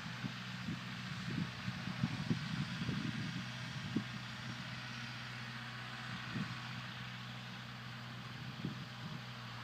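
Kubota 4701 tractor's diesel engine running steadily under load, with irregular knocks and clanks over the first four seconds and a couple more later.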